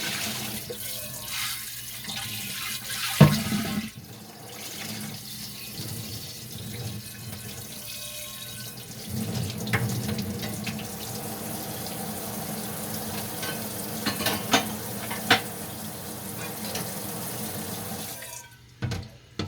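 Tap water running into a sink while dishes are washed by hand, with a few sharp clinks and knocks as dishes are handled. The water shuts off near the end, followed by one more knock.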